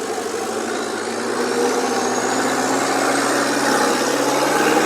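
Off-road 4WD engine working under load, revs and loudness rising gradually as it pulls over a trail obstacle. A faint rising whine runs above it.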